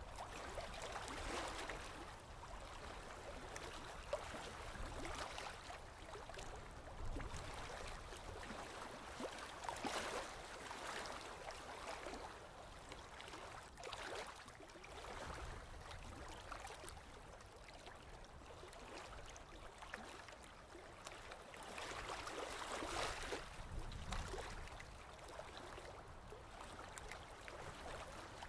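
Sea waves washing in, a steady rush of water that swells and eases every few seconds, loudest around ten seconds in and again a little past twenty seconds.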